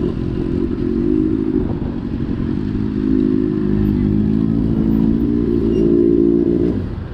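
Motor vehicle engine running steadily under way, with its low drone easing off slightly near the end.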